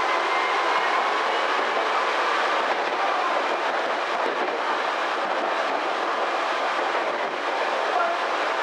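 Tobu Skytree Line electric commuter train running between stations: steady wheel and rail noise with a faint high whine through it.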